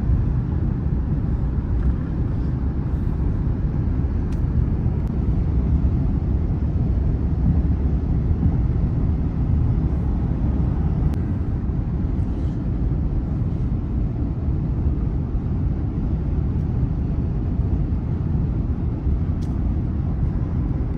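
Steady low rumble of a moving vehicle, tyre and engine noise heard inside the cabin, unchanging throughout.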